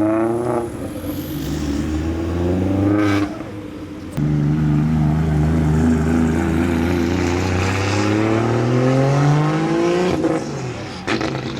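Nissan Silvia S14 engine revving, its pitch climbing and falling several times, with a short drop about three seconds in and a long climb near the end.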